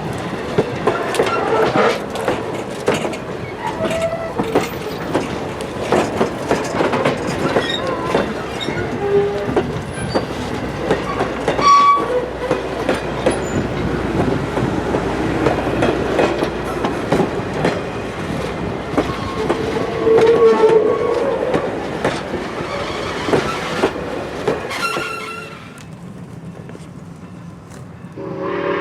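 Strasburg Rail Road steam excursion train rolling past, its wheels clicking over the rail joints in a steady clickety-clack with occasional short squeals; it fades off about 25 seconds in.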